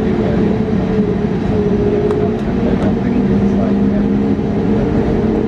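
Steady low rumble and hum inside the cabin of an Airbus A320neo, with faint passenger voices.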